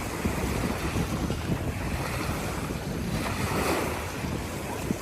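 Sea waves washing onto the shore in gentle swells, with wind rumbling on the microphone.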